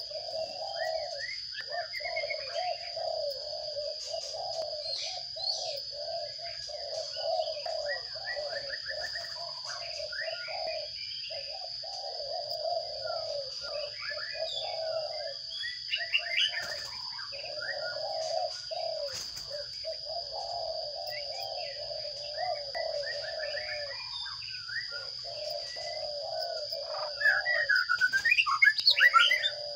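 Sparrows chirping at a nest box, with a louder flurry of chirps near the end. Under it run a low buzzy hum that comes and goes and a steady high whine.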